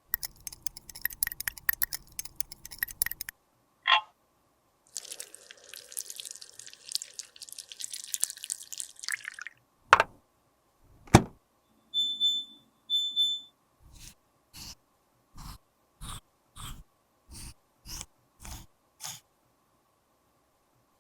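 Close-up handling sounds while a lip balm is being made. About three seconds of crackly scraping come first, then a few seconds of hiss-like rustle and two sharp knocks. Two short electronic beeps follow, then a row of about ten evenly spaced clicks.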